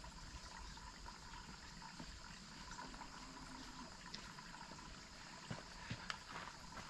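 Faint, steady rush of running water from a waterfall, with a few sharp crackles from a campfire near the end.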